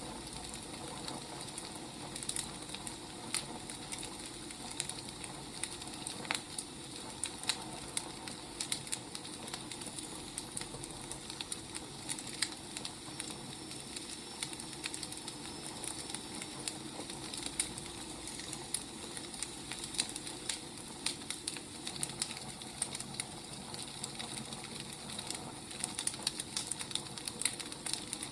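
Wood fire crackling: irregular snaps and pops over a steady soft hiss.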